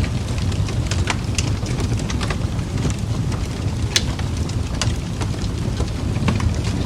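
Fireplace wood fire crackling: irregular sharp pops and snaps over a steady low roar, the loudest pop about four seconds in.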